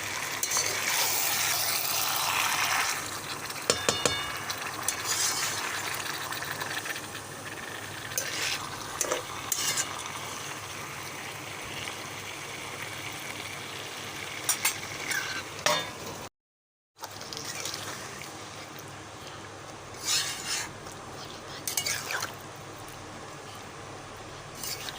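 Chicken and masala frying in a pan, sizzling steadily while a spoon stirs, with scattered clinks of the spoon against the pan. The sound drops out briefly about two-thirds of the way through.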